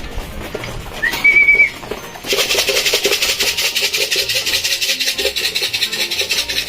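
A pigeon keeper's short call whistle, rising and then held, about a second in, calling racing pigeons in to feed. Then a fast, even rattling that keeps up steadily from about two seconds in.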